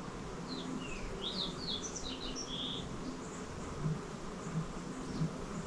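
Grouse giving its low, pulsing 'broop' call, which sounds like a vibrating cell phone: low notes come about every two-thirds of a second from around four seconds in. Before that, a small bird chirps a quick run of high notes.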